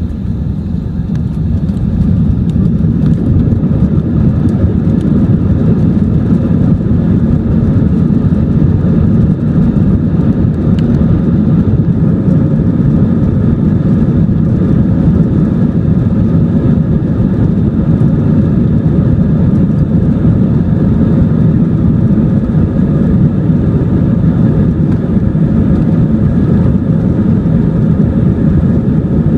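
Airbus A321's IAE V2500 turbofan engines at high thrust, heard inside the cabin: a loud, steady rumble with several steady engine tones, building over the first couple of seconds and then holding, typical of the takeoff roll and initial climb.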